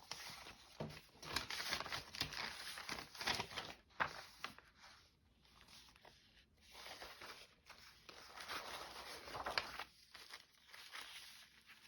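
Sheets of paper and folded paper signatures rustling and crinkling as they are handled and shuffled, in irregular bursts.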